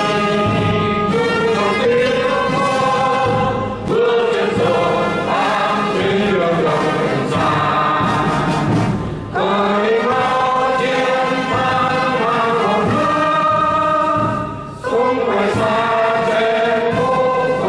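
A choir singing with a brass band, in long held phrases broken by short pauses about every five seconds.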